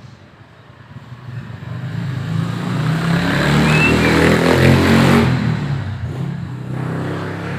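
A motor vehicle's engine passing by, growing louder to a peak about two-thirds of the way through and then fading, with a second, quieter one coming up near the end.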